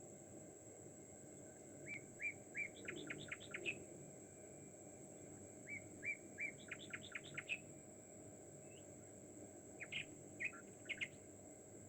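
A songbird singing: a phrase of three short notes followed by a quick run of falling notes, sung twice, then a few short calls near the end.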